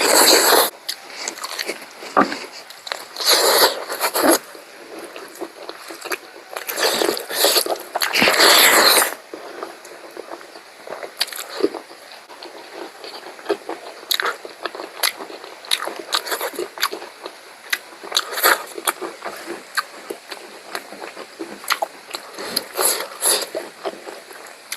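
Close-miked chewing and biting of pork curry: wet mouth sounds and small crunches, with louder noisy stretches near the start, about three to four seconds in, and about seven to nine seconds in.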